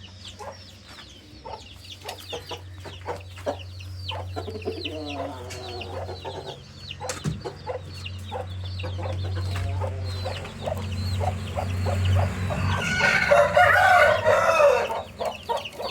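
Chicks peeping and a hen clucking in short repeated calls, then a rooster crowing loudly in one long call near the end.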